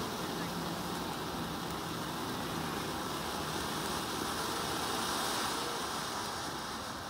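Ground fountain firework spraying with a steady hiss, no bangs, easing slightly near the end.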